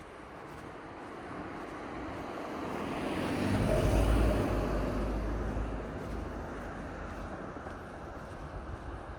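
A car passing by on the street, its tyre and engine noise swelling to a peak about four seconds in, with a low rumble, then fading away.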